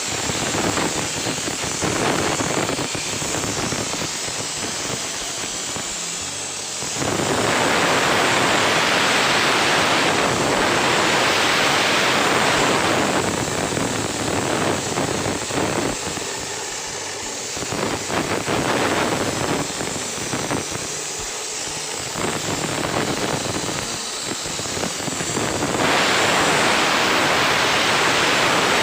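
CNC plasma cutter torch cutting corrugated steel sheet: a loud, even hiss of the plasma arc and its air jet, which swells louder for several seconds about a quarter of the way in and again near the end.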